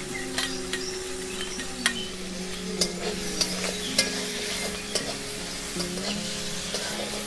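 Prawns frying in hot oil in an iron kadai, sizzling steadily, with sharp metal clinks about once a second as a metal utensil stirs them.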